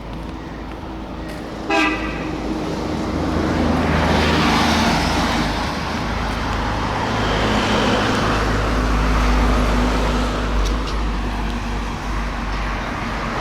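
Street traffic: a short car horn toot about two seconds in, then motor vehicles passing close by, their engine and tyre noise swelling twice.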